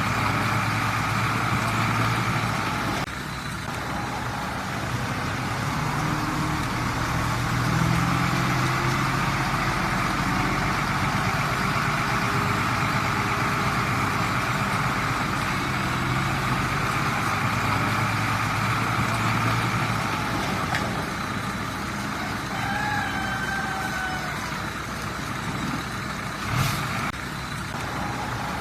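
Heavy diesel earthmoving machinery running steadily, its engine level dipping and rising, with a short sharp knock near the end.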